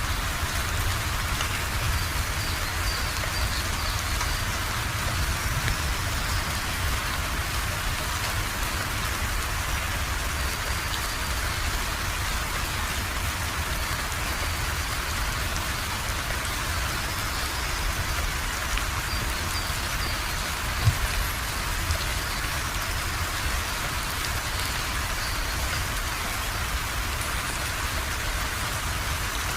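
Steady rainfall: a dense, even hiss of rain striking surfaces, with a low rumble underneath. One brief thump comes about two-thirds of the way through.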